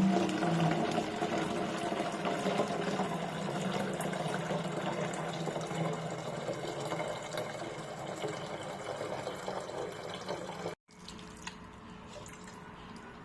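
Water running and filling a container, with a steady motor-like hum alongside that fades gradually. It cuts off abruptly about eleven seconds in, leaving a quieter hiss.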